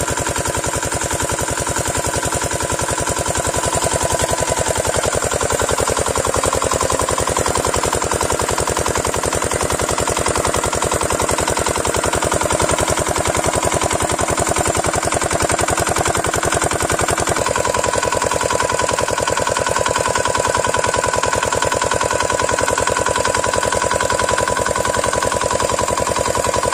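Field Marshal 5 HP single-cylinder diesel engine running steadily on a borewell pump, with a rapid, even exhaust beat. The tone of the sound changes about two-thirds of the way through.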